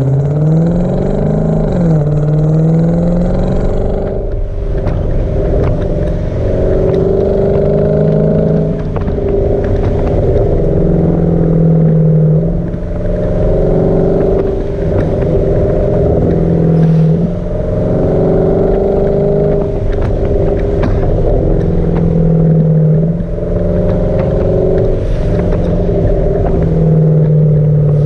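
Hyundai Genesis sedan's V8 running through a muffler-delete exhaust while driving: the note rises quickly as the car accelerates at the start, then holds a steady drone that shifts up and down every few seconds with the throttle.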